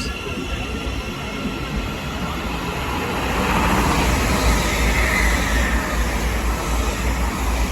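Train running along the track. Its rumble grows louder about three seconds in as it comes closer, with a faint wheel squeal at the start.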